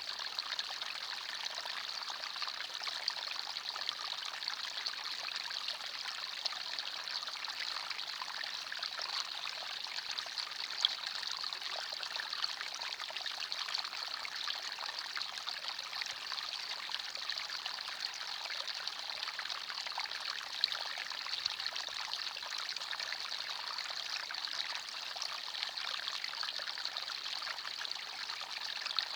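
Forest stream running over stones: steady splashing and trickling water.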